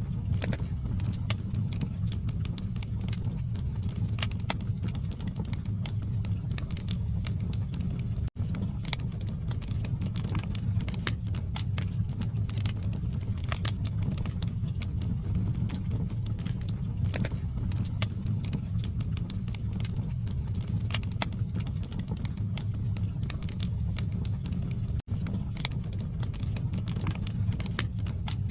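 Logs burning in a fireplace: a steady low rumble of flame with frequent sharp crackles and pops. The sound cuts out for an instant twice, once about a third of the way in and once near the end.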